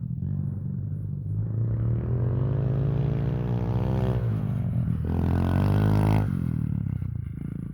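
Stomp FXJ 110cc pit bike's small single-cylinder four-stroke engine revving under throttle. The pitch climbs, dips briefly about four seconds in and climbs again, then drops off sharply a little after six seconds as the throttle is shut.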